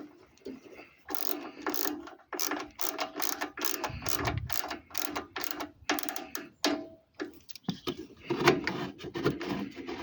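Ratchet wrench worked in short repeated strokes, a run of rattling clicks a few times a second while a fastener is turned on a lawn tractor engine, with one dull knock about four seconds in.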